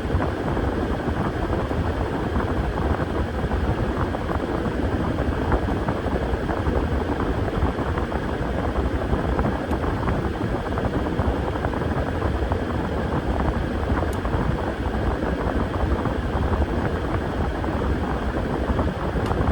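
Washing machine running, a steady rumble with no change from start to finish.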